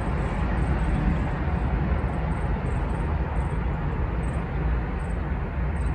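Steady outdoor background noise: a continuous low rumble with a hiss over it.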